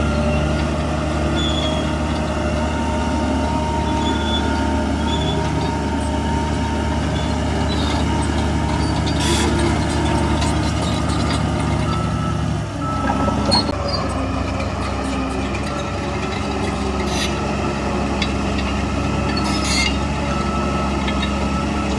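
Heavy diesel earthmoving machinery running steadily, its engine note changing about 13 seconds in, with a few short sharp clanks.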